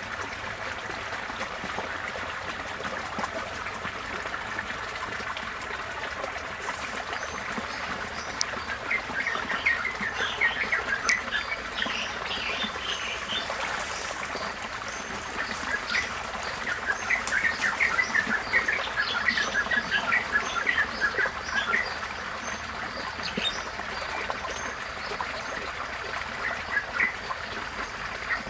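Receding floodwater flowing steadily, a continuous running-water hiss, with bird calls chattering over it in quick bursts, most busily about a third of the way in, in the second half, and near the end.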